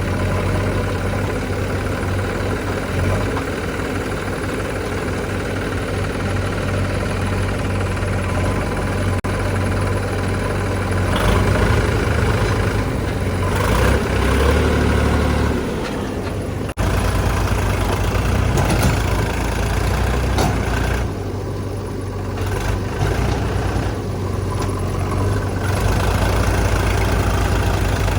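Diesel engines of a backhoe loader and tractor at work, running and revving up in stretches. The sound breaks off abruptly about 17 seconds in and goes straight on again.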